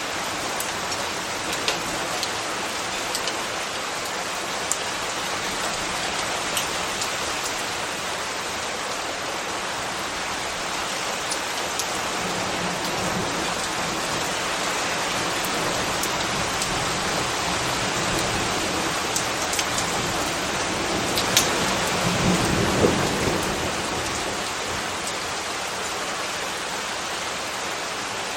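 Steady rain falling, with scattered sharp ticks of single drops. About three-quarters of the way through, a low rumble swells and fades over a few seconds.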